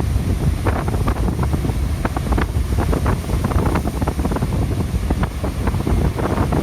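Strong wind buffeting the microphone with a continuous low rumble and crackle, over rough sea surf, in the gale ahead of an approaching typhoon.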